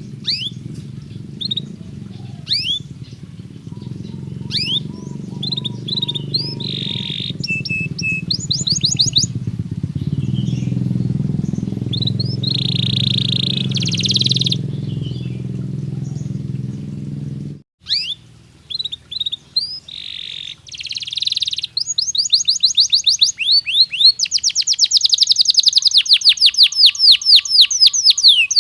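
Domestic canary singing: short chirps and whistled notes, then fast rolling trills from about two-thirds of the way through. A low background rumble under the song cuts off abruptly about 18 seconds in.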